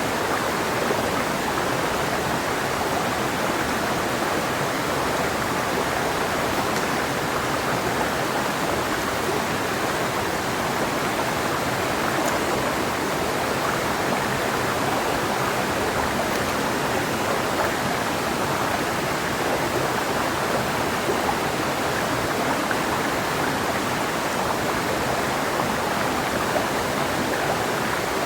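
Clear mountain river flowing over rocks: a steady, even rush of running water.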